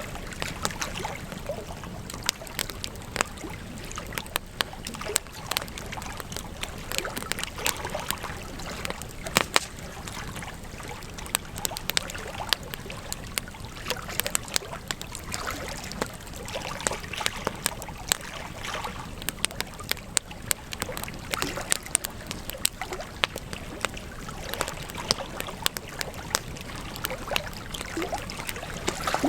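Wood campfire crackling, with frequent irregular sharp pops and snaps over a steady hiss.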